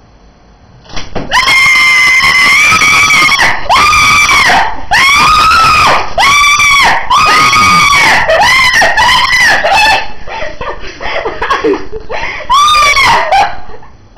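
A person screaming over and over in loud, high-pitched shrieks, each about half a second to a second long, starting about a second in and easing briefly before a last burst near the end.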